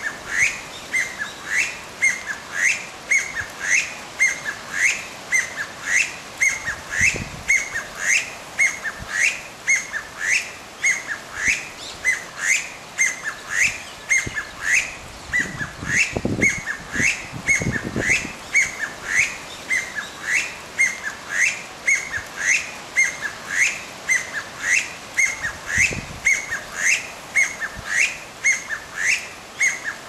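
A wild bird calling over and over: a short, rising whistled note repeated very evenly, about two a second.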